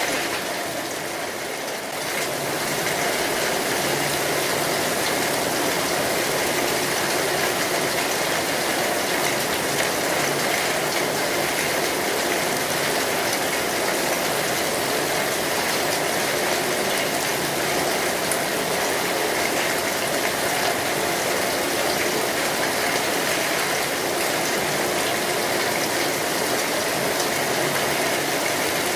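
Steady rain falling on an umbrella, a little softer for the first two seconds.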